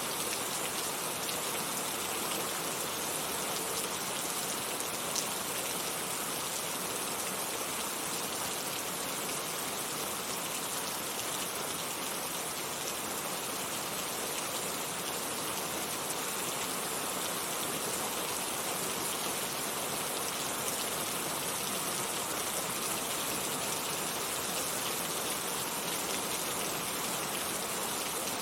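Heavy rain falling steadily: a dense, even hiss of raindrops with no pauses or changes.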